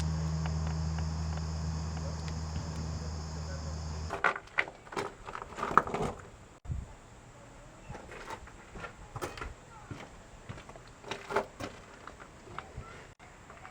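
Steady low vehicle drone, like a car interior while driving, that cuts off abruptly about four seconds in. Quieter scattered short knocks and clicks follow.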